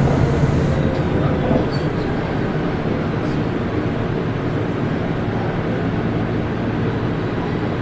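Toei Oedo Line 12-600 series linear-motor subway train running through a tunnel: a loud, steady rumble and roar of wheels and rails. It eases slightly about a second in, then holds even.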